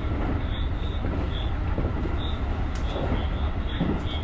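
Japanese rapid electric commuter train running along the line, heard from the driver's cab: a steady low rumble of wheels on the rails, with short faint high squeaks about twice a second.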